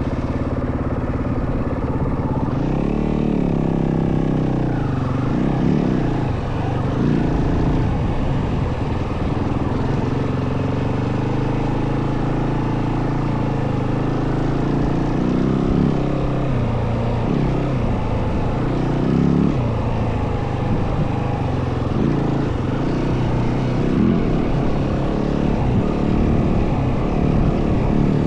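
Yamaha WR450F single-cylinder four-stroke dirt bike engine under way, its revs rising and falling repeatedly as the throttle is worked and gears change.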